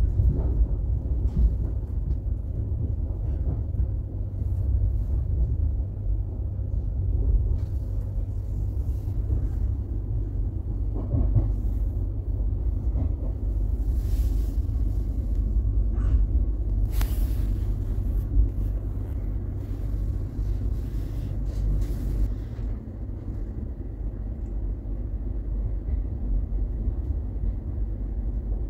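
Steady low rumble of a regional express train running along the track, heard from inside the passenger car. A scattering of short clicks and rattles comes through near the middle.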